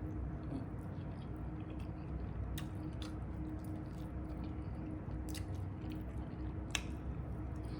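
Close-up chewing of a chicken wing in a crunchy crushed-Cheeto and Dorito crust, with a few sharp crackly crunches, over a steady low hum.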